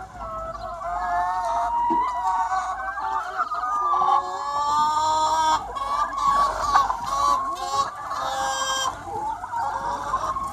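A large flock of free-range hens clucking and calling, many overlapping calls at once, with longer, louder drawn-out calls about four seconds in and again near eight seconds.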